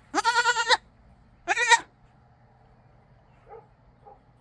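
Goat bleating loudly twice, a long wavering bleat and then a shorter one, begging for a bottle of milk.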